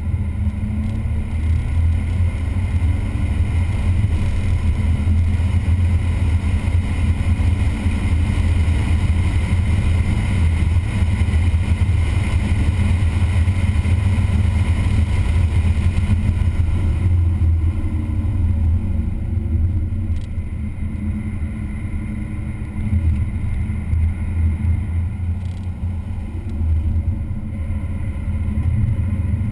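Vehicle engine running hard at track speed, with a heavy deep rumble. It eases off about two-thirds of the way through and builds again near the end.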